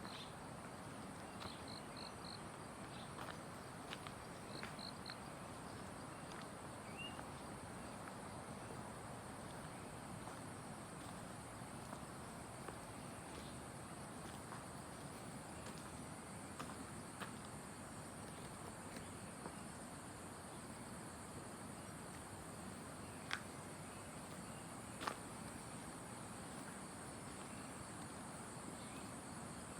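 Steady high-pitched drone of forest insects, with a bird's quick three-note chirps twice in the first few seconds and a single chirp a little later. Two sharp clicks stand out near the end.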